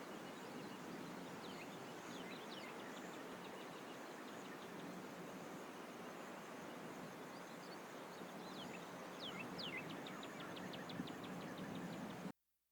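Outdoor nature ambience: a steady background hiss with birds chirping, a few quick falling chirps early and again later, followed by a fast run of ticking notes, about ten a second. The sound cuts off suddenly just before the end.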